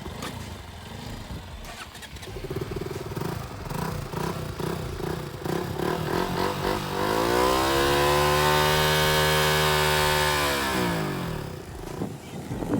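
Motorcycle engine running unevenly at low revs, then revved up about halfway through, held high for a few seconds and let fall back to idle.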